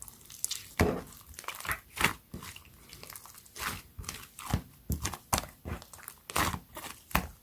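Clear slime being squeezed and poked by hand, giving irregular sharp pops and crackles, about two a second with softer sticky crackling between.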